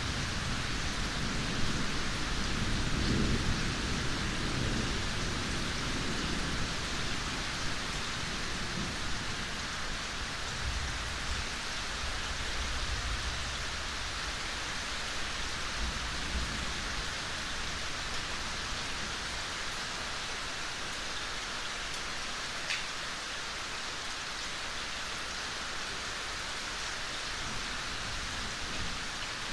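Steady rain falling in a forest, an even patter of drops. A low rumble of distant thunder underneath dies away over the first half.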